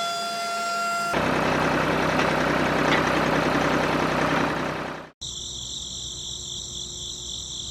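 Three spliced sounds: a steady pitched hum for about a second, then a small engine running for about four seconds, cut off suddenly; then a steady high pulsing chirring like crickets.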